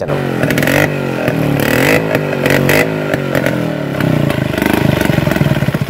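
Modified classic Vespa scooter engines revved up and down. About four seconds in, the revs drop to a lower, fast pulsing run.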